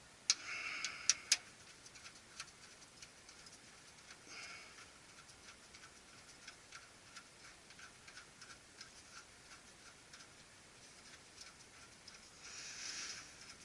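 A few sharp clicks in the first second and a half, then faint, even ticking about three times a second, with short bursts of rustling.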